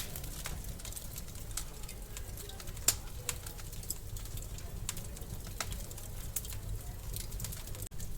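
Wood fire in a fireplace crackling, with irregular sharp pops over a steady low rumble of the flames; one louder pop about three seconds in.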